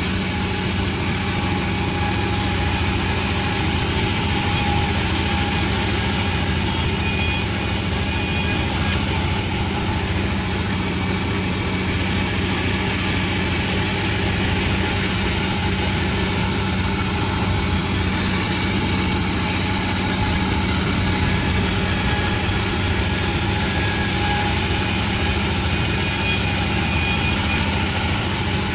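Panda36 sawmill running steadily with an even low hum, with no starts, stops or changes.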